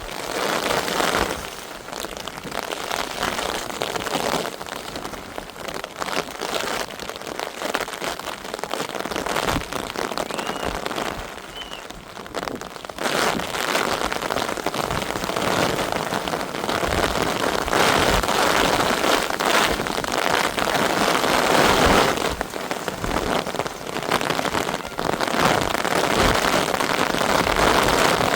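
Heavy rain falling in a dense, steady patter, easing a little about ten seconds in and heavier again from about thirteen seconds.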